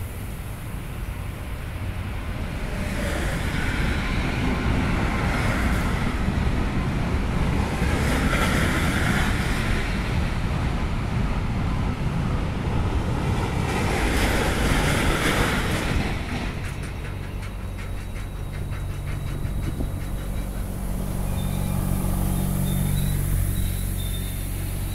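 Intermodal freight train of wagons carrying semi-trailers rolling past: a steady rumble of wheels on rail that swells and fades every few seconds, with a run of rapid clicks about two-thirds of the way in and a low hum near the end.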